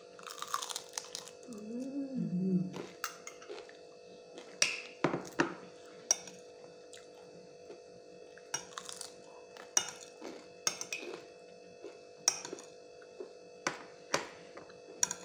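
Close-up chewing of crispy fried chicken skin: sharp, irregular crunches every second or two, with a short hummed "mm" about two seconds in.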